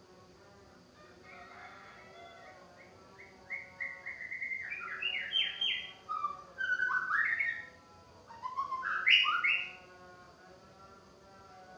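White-rumped shama singing: a run of quick whistled notes climbing in pitch, then two loud, varied phrases that sweep up and down.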